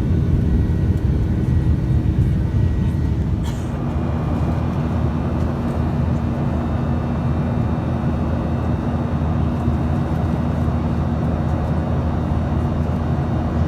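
Cabin noise of a Boeing 737-800 in flight: a steady low rumble of the jet engines and airflow with a few steady tones. About three and a half seconds in a brief click is heard, after which the rumble drops slightly and its hum changes pitch.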